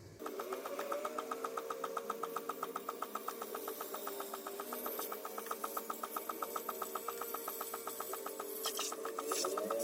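A small machine running steadily with a fast, even ticking, about nine ticks a second, over a steady hum; a few sharp clicks near the end.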